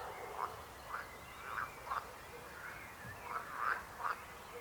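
Frogs croaking in a chorus: short croaks repeating several times, at about one to two a second, some overlapping.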